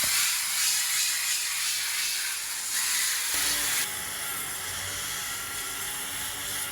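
Electric power sander running, a loud steady hissing whir. About three and a half seconds in the sound shifts, and a steady motor whine with a low hum comes through.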